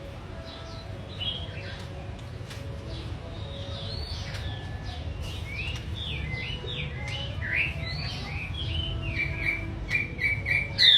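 A songbird singing a run of quick chirps and whistled notes, growing faster and louder toward the end into rapid repeated notes.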